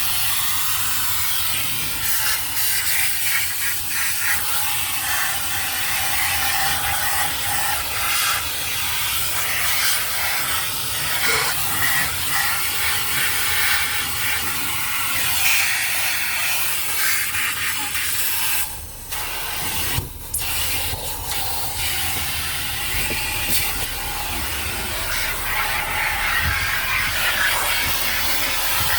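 Automatic car wash heard from inside the car: a loud, steady hiss, broken by a brief drop twice about nineteen and twenty seconds in.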